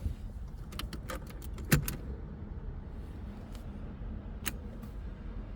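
Ignition keys jangling and clicking as the key is turned in the LS-swapped BMW E36, with no starter cranking and no engine running: the car will not crank, and the starter doesn't even click. A few sharp clicks come about a second in, and a single click comes later.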